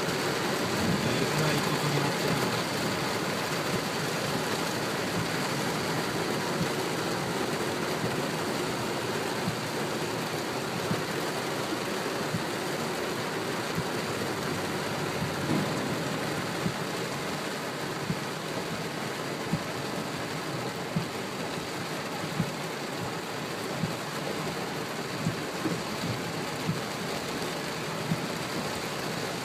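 Torrential rain pouring down steadily, with scattered sharp ticks of drops striking nearby.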